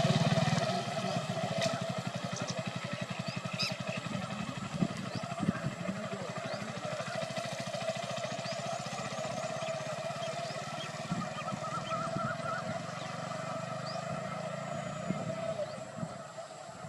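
A motor vehicle's engine running at a steady low beat that slowly grows fainter, with a few short bird chirps over it.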